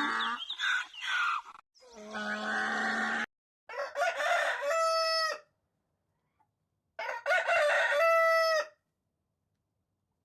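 Rooster crowing twice, two separate cock-a-doodle-doos about three seconds apart, each ending on a held note. A different animal call fills the first three seconds.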